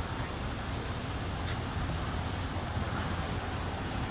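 Steady traffic noise from vehicles passing on the road, a continuous low rumble and hiss.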